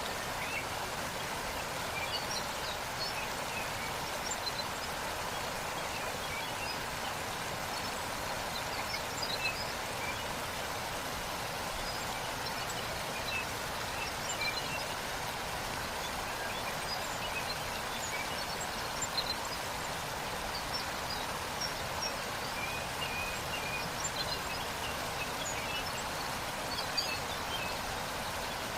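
Waterfall rushing steadily, with faint, scattered bird chirps over it.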